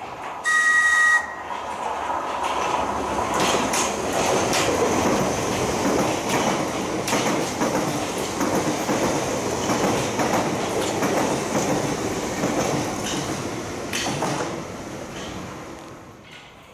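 A London Underground train sounds a short horn blast about half a second in, then runs through with a steady rumble and repeated clicks of its wheels over the rail joints, fading away near the end.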